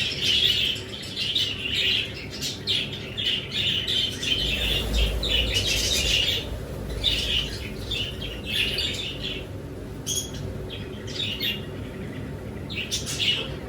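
Many small kept birds chirping continuously in quick, overlapping calls. A brief low rumble comes about four seconds in.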